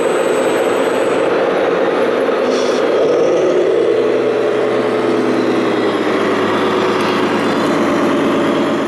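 Scale RC heavy machinery running, a steady diesel-like engine sound that shifts to a lower, deeper note about three and a half seconds in.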